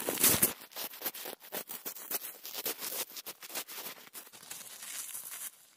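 Footsteps crunching through crusted snow, a quick uneven run of crunches, loudest at the start.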